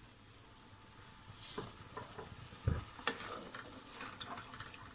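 Boiled onion and garlic starting to sizzle in freshly added oil in an aluminium pot, while a wooden-handled spoon stirs and scrapes against the pot. The scraping and clicking begin about a second in, with one louder knock near the middle.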